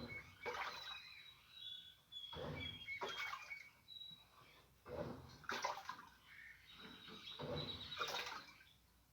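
Easy top-loading washing machine with water sloshing in the tub, coming in irregular surges every second or two.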